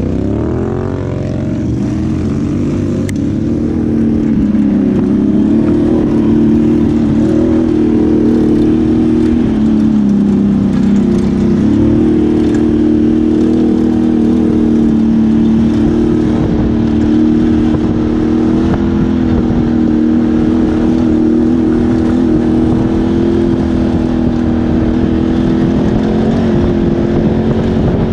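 ATV engine running under way. It revs up in the first second, then holds a steady drone with small dips and rises in pitch, and picks up again about twelve seconds in.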